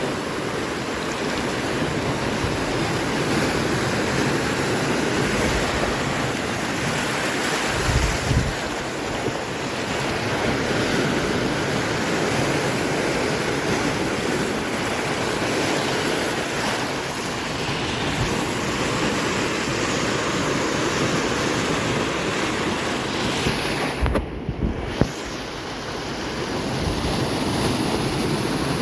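Large swell waves breaking and rushing on the shore, a steady loud surf noise, with low thumps of wind on the microphone about eight seconds in and again near the end.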